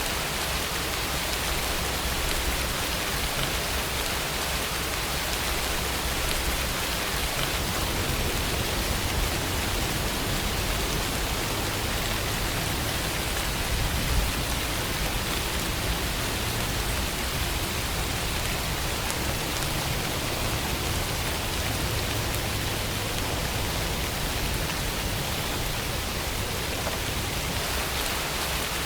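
Steady rainfall ambience: an even hiss of rain falling on surfaces, with one faint tap about fourteen seconds in.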